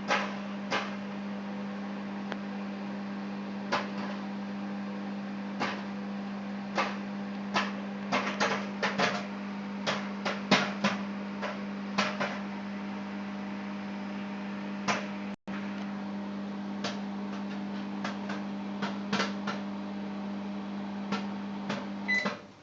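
Microwave oven running with a steady hum while popcorn pops inside, the sharp pops coming fastest in the middle and thinning out later as the popping nears its end. Near the end the oven stops with a short beep.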